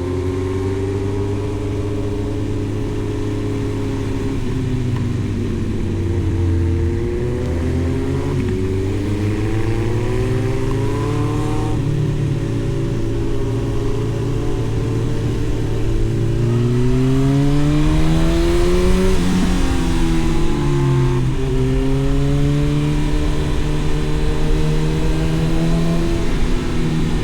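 2011 Honda CB1000R's inline-four engine breathing through an Arrow aftermarket exhaust, its revs drifting down, rising and falling. The engine note climbs to a peak about two-thirds of the way through, then drops away and settles.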